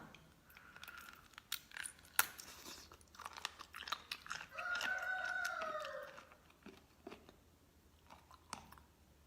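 Close-up chewing of raw sea cucumber: wet, crunchy bites with scattered sharp clicks, the loudest about two seconds in. About halfway through comes a drawn-out, slightly falling tone lasting over a second.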